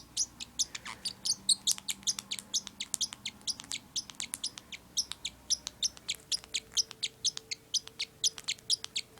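Pet parrotlet chirping in a rapid, continuous run of short high chirps, several a second.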